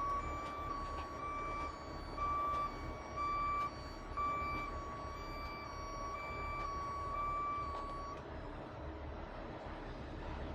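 Heavy truck's backup alarm beeping in a steady series, about one and a half beeps a second, and stopping about eight seconds in, over a diesel engine running.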